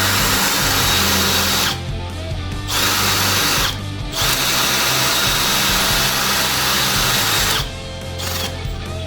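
Electric drill running in bursts: it stops for about a second some two seconds in, stops again briefly near four seconds, then runs until near the end.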